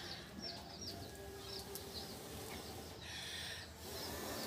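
Faint, repeated bird chirping: short, high, falling chirps about three a second. About three seconds in comes a short breathy rush as the wood fire is blown on.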